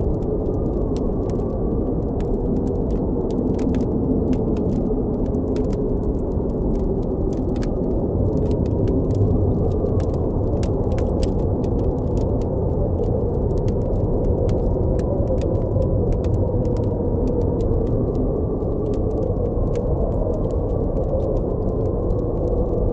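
Blizzard wind blowing hard and steady, a low rumbling rush with a faint wavering howl, over the scattered sharp crackles and pops of a campfire.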